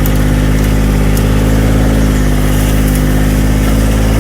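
An engine running steadily at an even speed, with a strong low hum.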